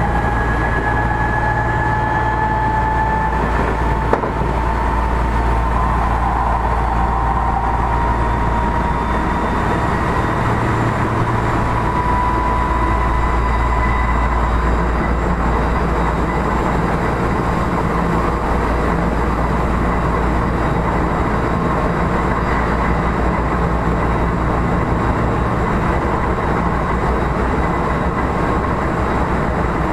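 Interior running noise of an Odakyu 1000 series electric train car with a Mitsubishi GTO-VVVF inverter: a steady low rumble of wheels and running gear with air-conditioning noise. A thin whine rises slowly in pitch over the first half, then fades.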